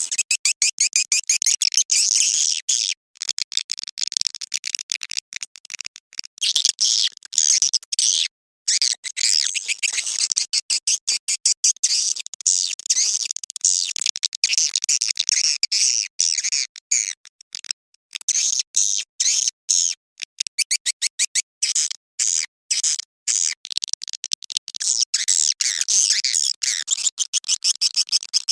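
Edible-nest swiftlet calls: dense, rapid, high-pitched twittering chirps, broken by frequent brief silent gaps. This is a swiftlet lure call ('suara panggil') of the mating kind, played to draw swiftlets to a nesting house.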